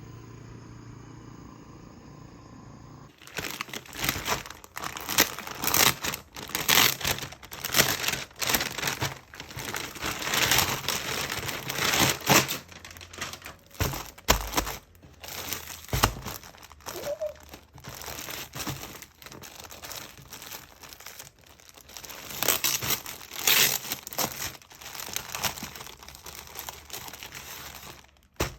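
Crinkling and rustling of material being handled, in close, irregular bursts with sharp little clicks, starting about three seconds in.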